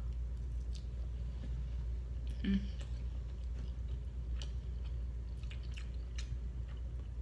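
A person chewing a mouthful of boiled shrimp close to the microphone: soft wet mouth clicks and squishes. About two and a half seconds in comes one short hum of the voice. A steady low electrical hum runs underneath.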